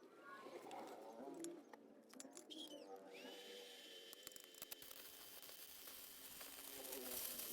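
Hukan MMA-200mini inverter stick welder striking an arc about three seconds in: a faint hiss with a steady high whine that grows slowly louder.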